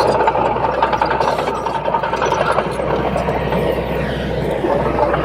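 Crawler bulldozer's diesel engine running steadily, with the clatter of the machine working.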